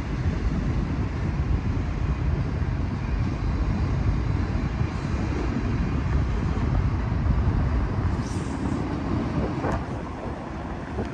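Freight train of autorack cars rolling past below, a steady rumble of wheels on rail.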